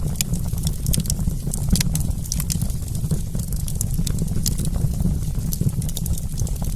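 Wood campfire crackling, with many small irregular pops and snaps over a steady low rumble.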